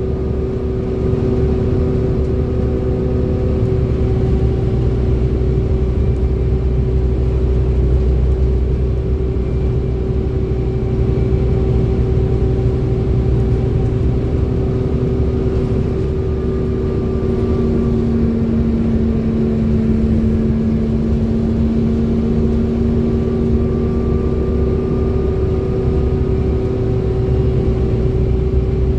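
Bus engine and driveline running under way, with a steady high whine over the low engine rumble: the vacuum-cleaner-like "hoover" whine that enthusiasts prize on this bus.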